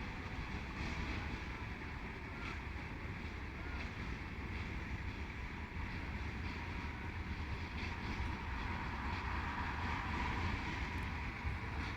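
TU10 narrow-gauge diesel locomotive running with its train: a steady low rumble that grows slightly louder in the last few seconds.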